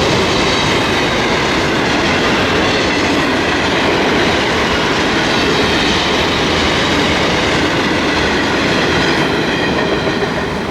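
Freight train wagons rolling past close by, a loud, steady rumble and rattle of wheels on rail with clickety-clack and a faint high squeal over it; the sound starts to fade near the end.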